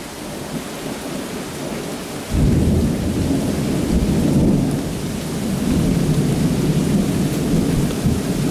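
Steady rain, then about two seconds in a sudden loud rumble of thunder that rolls on, swelling and easing.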